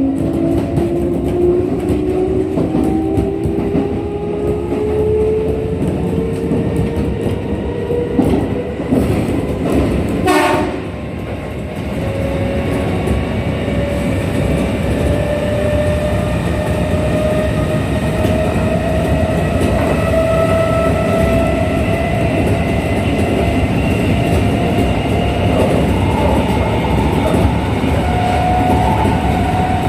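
Onboard running sound of a Kintetsu 1233-series electric train accelerating: the traction motor whine climbs steadily in pitch over the rumble of wheels on rail. A short sharp burst comes about ten seconds in. The train is a set singled out for its unusual running noise.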